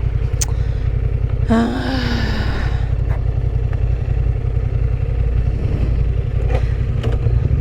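Yamaha Ténéré 700 parallel-twin engine running with a steady low rumble. About a second and a half in, a short sound with a falling pitch rises briefly above it.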